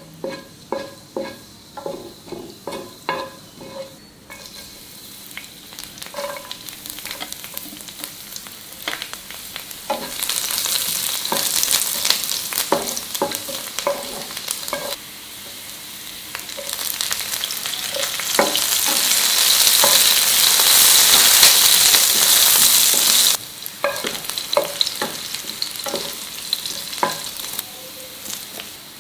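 Ajwain seeds, then chopped garlic and green chilli, sizzling in hot olive oil in a nonstick frying pan while a wooden spatula taps and scrapes against the pan. The sizzle swells loud twice and cuts off suddenly near the end, leaving scattered taps of the spatula.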